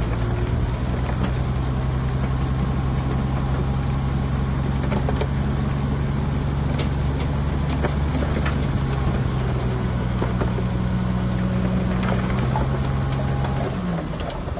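Diesel engine of a piece of heavy earthmoving equipment running steadily at a constant pitch, with scattered clanks and rattles. Near the end the engine note drops and the sound gets quieter.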